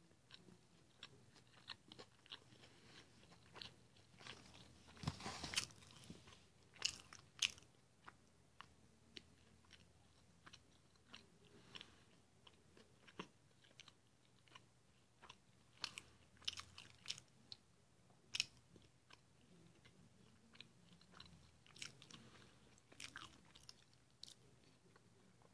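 Faint chewing and biting of a Spicy McChicken sandwich: soft, irregular crunching and small mouth clicks, with a few louder crunches scattered through.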